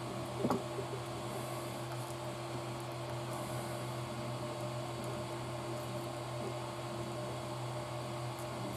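Steady low hum of room background noise with a few constant tones, and one faint click about half a second in.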